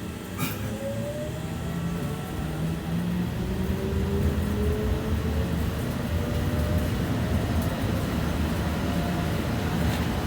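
BKM 60102 tram under way: low running rumble of wheels on rail, with the traction drive's whine rising in pitch as it gathers speed. A sharp click sounds about half a second in.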